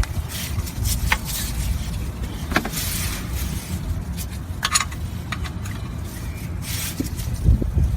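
Metal wrench clinking and scraping on the oil-pan drain plug as it is tightened snug, in several irregular clicks and short scrapes. A low rumble runs underneath.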